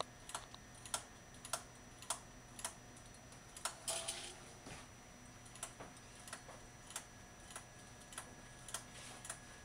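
Knitting needles clicking against each other in short, uneven taps about twice a second as stitches are worked by hand, with a brief rustle about four seconds in.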